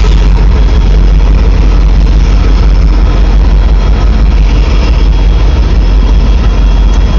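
CN freight train rolling past close by: a loud, steady heavy rumble that does not let up.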